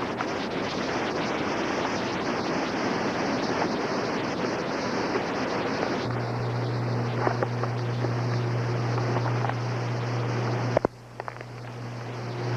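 Hurricane wind and rain making a steady rushing noise. About six seconds in, a steady low hum joins it. Near the end there is a click, and the level drops suddenly before building back up.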